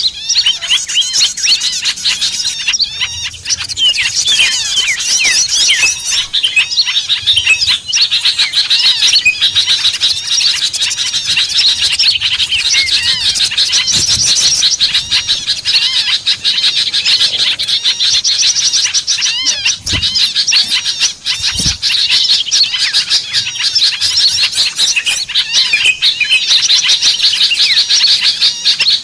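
Dense, noisy chorus of many small songbirds chirping and twittering over one another without pause. It is a small-bird lure recording, played to draw wild small birds in for trapping.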